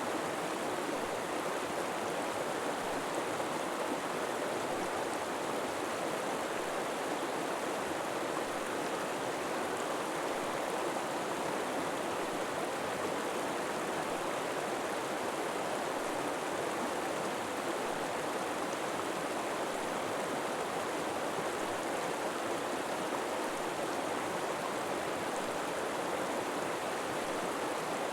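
River water flowing and splashing over rocks: a steady, even rush.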